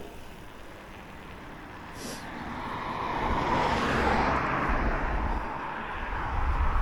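A vehicle passing by: a broad rushing noise that swells over a couple of seconds, is loudest about four seconds in, then slowly fades, with a low rumble under it.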